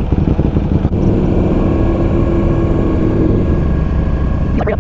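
Buell Lightning XB12SCG's air-cooled V-twin engine running steadily while the motorcycle is ridden at low speed.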